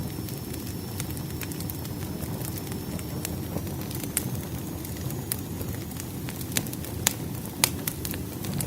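Firewood burning in a fireplace: a steady low rush of flame with frequent sharp crackles and pops from the logs, two louder pops coming about seven and a half seconds in.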